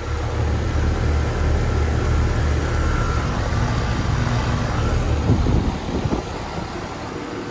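Carrier Comfort Series 2-ton central air conditioner's outdoor unit running steadily: a low compressor hum under the even rush of the condenser fan.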